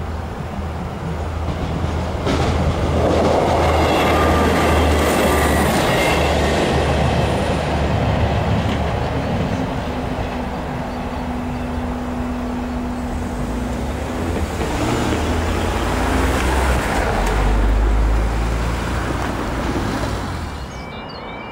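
A train passes over a level crossing, its engine and wheels running loudly for several seconds. Road cars then drive across. Near the end the crossing's warning alarm starts up again with a repeating chirp.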